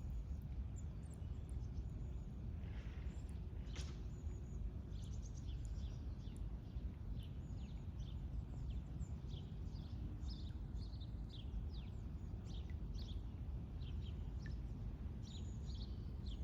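Small birds chirping: many short, high chirps that slide downward in pitch, coming in quick runs through most of the stretch, over a steady low rumble.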